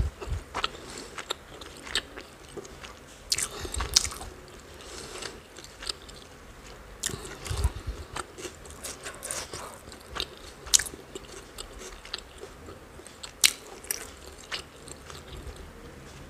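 A person chewing a mouthful close to the microphone, with irregular wet mouth clicks and smacks.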